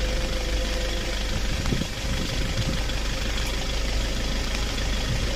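A car's engine running steadily with a low rumble.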